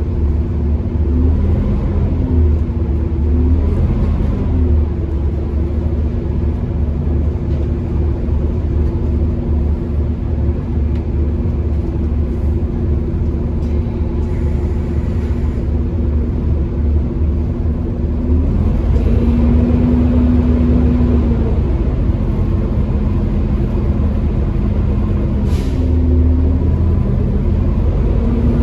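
Bus engine heard from on board, driven hard with a hoover-like whine over a heavy low rumble. Its note shifts several times as the bus changes gear, and there is a brief hiss near the end.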